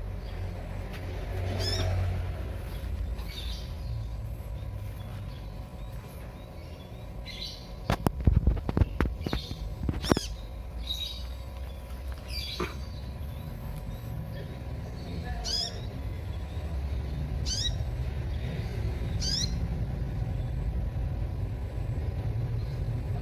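A sunbird (the bird Indonesian bird-keepers call 'kolibri') giving short, sharp, high chirps that sweep in pitch, repeated every second or two. A steady low rumble runs underneath, and a brief cluster of loud knocks comes about eight to ten seconds in.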